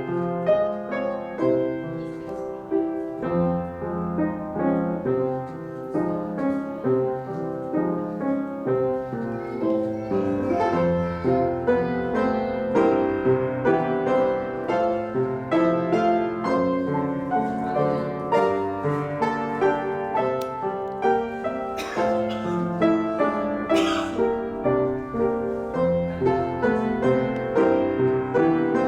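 Piano playing a steady, evenly paced classical accompaniment for ballet class exercises, with two short sharp noises about three quarters of the way in.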